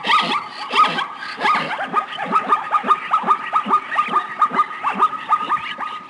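Animal calls repeating rapidly, about four or five short calls a second, each falling in pitch, over a steady high tone.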